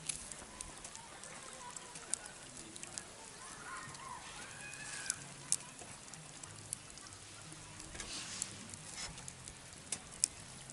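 Campfire crackling, with scattered sharp pops and clicks. A faint gliding call-like sound comes about four to five seconds in.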